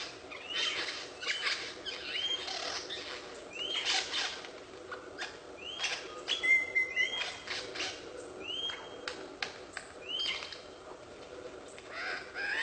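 A bird calling: a short, arched chirp repeated roughly once a second, mixed with sharp clicks.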